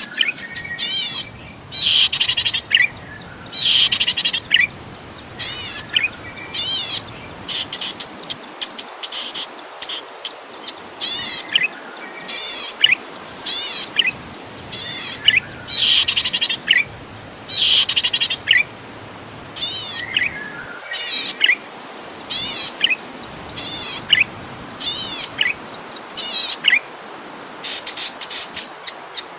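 Zitting cisticola (cici padi) singing: a run of short bursts of fast, high, sweeping notes, one burst after another about every second, with short sharp chips between.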